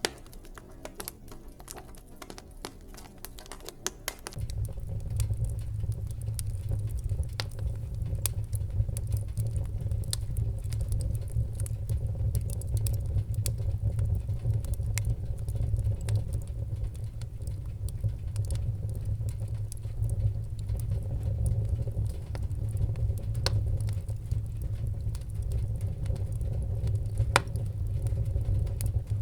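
Wood fire in a fireplace crackling, with scattered sharp pops. About four seconds in, a steady low rumble sets in beneath the crackling and holds.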